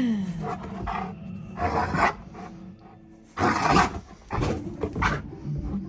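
Dogs play-fighting, growling in several short rough bursts.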